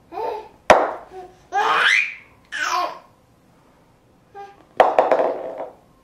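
A young child making vocal noises and laughing in a run of short bursts, one rising in pitch, with a sharp knock just under a second in.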